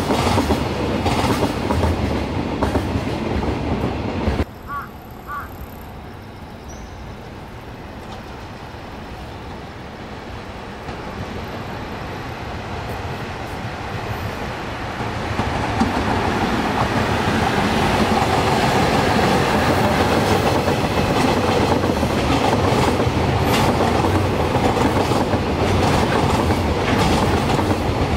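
Container freight trains passing. The wagons rumble and clack over the rail joints, and this stops abruptly a few seconds in. The sound of a second freight train then grows as it approaches, and from about halfway on its container wagons rumble past with steady clickety-clack.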